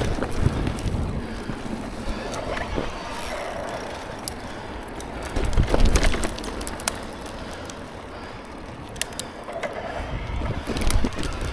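Mountain bike ridden over a wet, rooty trail: a continuous rumble of tyres and wind on the microphone, with scattered clicks and rattles from the bike over bumps and a louder jolt about halfway through.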